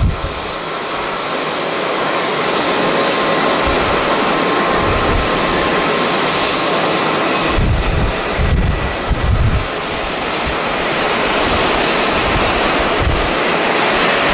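Jet airliner engines running loud and steady with a high whine, heard across the airfield, while gusts of strong wind buffet the microphone in low rumbles at the start, around the middle and near the end.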